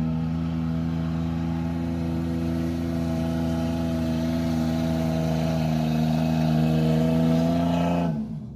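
V8 engine spun up and held at steady high revs while climbing, rising slightly near the end before the revs drop away sharply as the throttle comes off.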